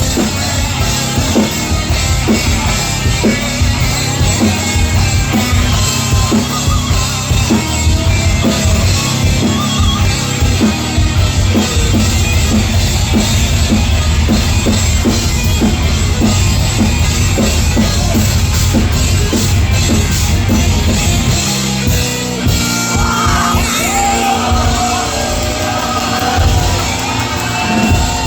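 A rock band playing live and loud, with distorted guitars and dense, fast drumming. About 21 seconds in the drumming thins and held, ringing chords and a pitched melodic line come forward.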